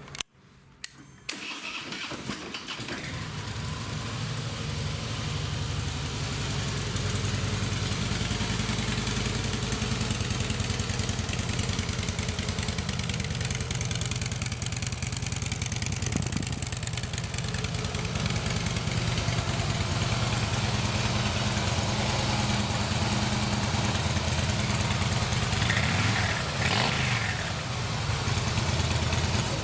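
Harley-Davidson Twin Cam 103 V-twin started with the electric starter about a second in. It catches and idles steadily.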